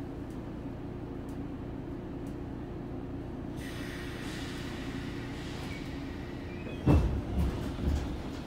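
Inside a JR 117 series electric train car at a platform: a steady low hum from the car's equipment. About three and a half seconds in a hiss of air starts and fades. Near the end comes a heavy thud, then two smaller knocks.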